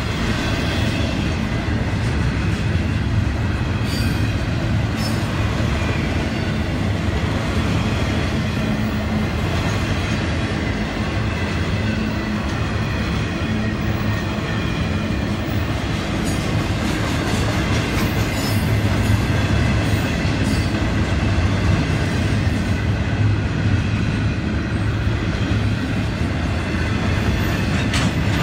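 Double-stack intermodal freight cars rolling steadily past on jointed track: a continuous rumble of wheels on rail with clickety-clack clatter.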